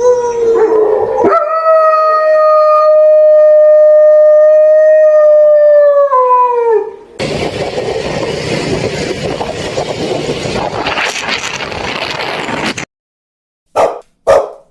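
A dog howling: one long held note for about five seconds that drops in pitch as it ends. After it comes a loud, even rushing noise for about five seconds that stops suddenly.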